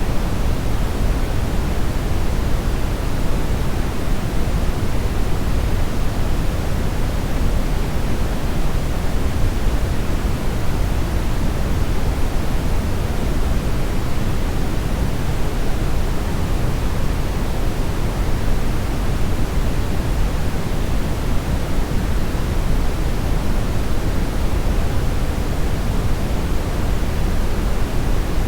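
Steady synthetic brownish noise: an even rumbling hiss, heaviest in the low end and fading toward the highs, with no rhythm or change.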